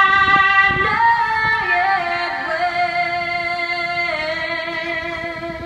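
Music with a woman singing long held notes that change pitch in slow steps.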